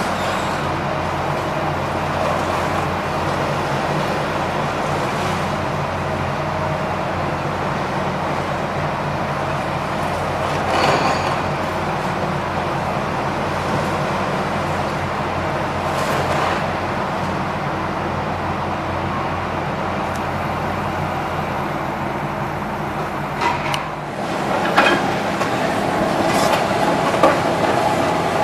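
A heavy engine running steadily, with a few knocks and a burst of clatter near the end.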